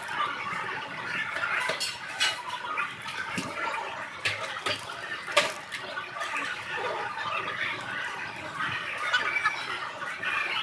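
Restaurant ambience: a steady background hubbub with a few sharp clinks of dishes and cutlery, the clearest about two, four and five and a half seconds in.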